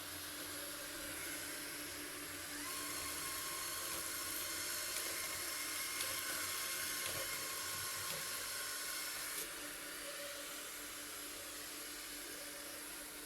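Rowenta Explorer Serie 60 robot vacuum running, a steady whir. From about three seconds in it gets louder, with a higher whine, and about nine seconds in it drops back.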